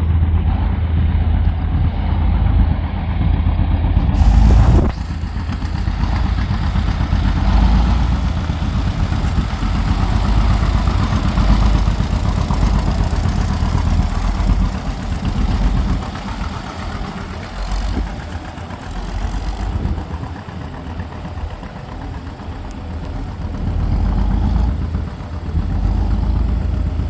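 Tractor engine running, with heavy low-end rumble; the sound changes abruptly about four seconds in and dips somewhat in loudness through the middle.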